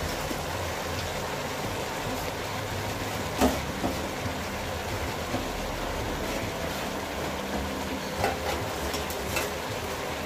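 Chopped spinach sizzling in a pot on top of cooked mutton, wilting down in its own water. It makes a steady hiss, broken by a few sharp clicks; the loudest click comes about three and a half seconds in.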